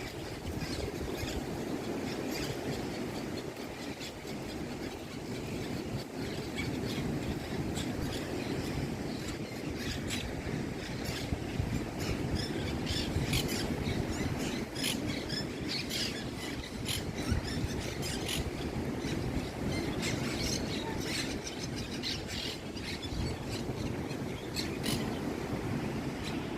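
Birds calling with many short, sharp, high squawks and chirps, coming thick and fast from about ten seconds in, over a steady low background rumble.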